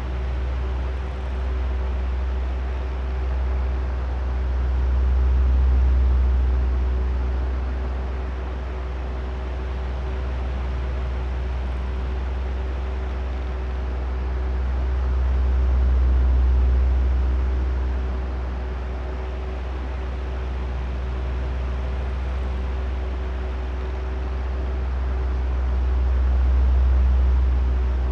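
Oscillating electric fan running, a steady drone of rushing air with a low rumble and a faint motor hum. The sound swells and fades about every ten seconds as the fan head turns back and forth, with three swells here.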